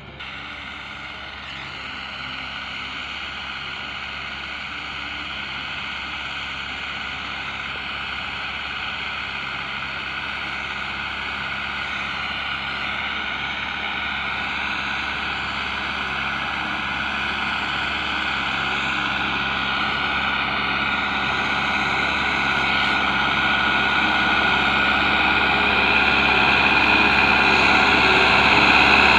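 A tractor engine running steadily, growing gradually louder throughout.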